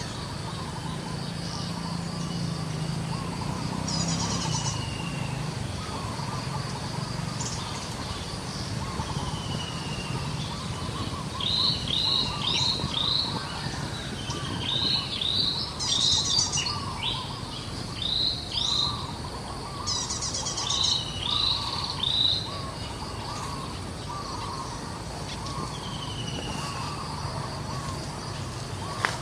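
Wild birds calling outdoors: several bursts of three or four quick rising chirps in the middle stretch, a few short falling whistles, and a constant faint chatter, over a steady low background rumble.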